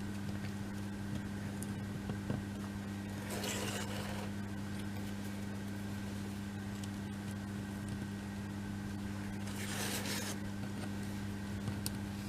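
Steady electrical hum, with a few faint clicks and two short rustles, a third of the way in and near the end, from small kit pieces being handled.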